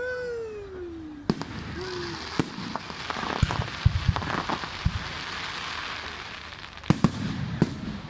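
Fireworks going off: a string of separate sharp bangs with crackling in between, thickest in the middle.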